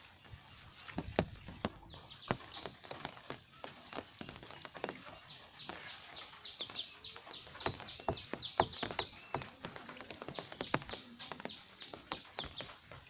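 Rain dripping: irregular drops tapping sharply on surfaces. From about two seconds in, a long run of quick high chirps, several a second, comes in over the dripping.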